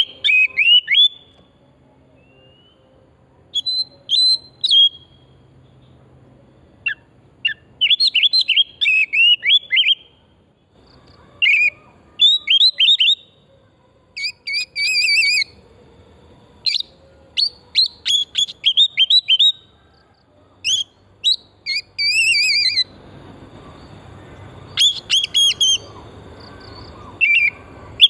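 Oriental magpie-robin singing vigorously: loud bursts of quick whistled and chattering notes, each burst a second or two long, with short pauses between.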